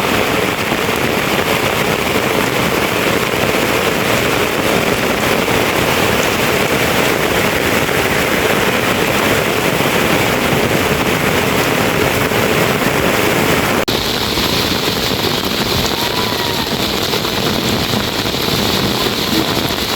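Steady, loud rushing noise with no rhythm or pitch, its character changing abruptly about fourteen seconds in.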